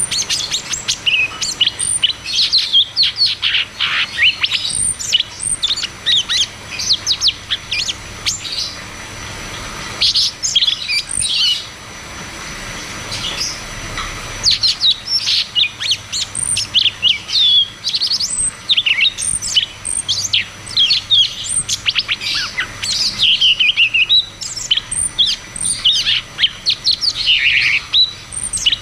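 Cucak cungkok singing a fast, rolling series of sharp chirps and quick whistled notes, pausing briefly about twelve seconds in before starting up again.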